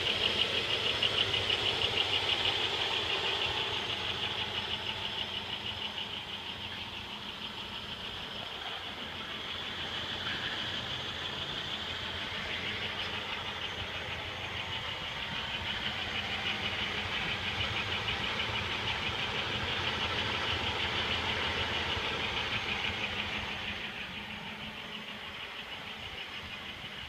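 A 1995 Pontiac Bonneville's 3800 Series II 3.8-litre V6 running steadily with a fast, even rattling noise, its level rising and falling. The noise is not from the belt drive: it stays the same with the serpentine belt removed.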